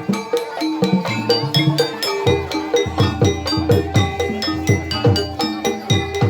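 Gamelan music accompanying an ebeg horse-trance dance: a fast, steady rhythm of drum strokes that drop in pitch under ringing struck metal notes.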